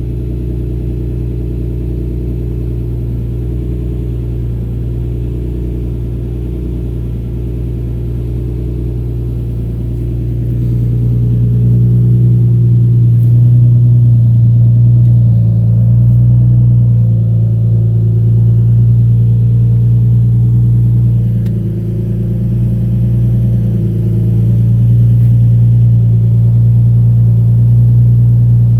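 Engine running through an Agency Power aftermarket exhaust: a steady low drone that gets louder about a third of the way in as the revs come up a little and holds there, dipping briefly once about two-thirds of the way through.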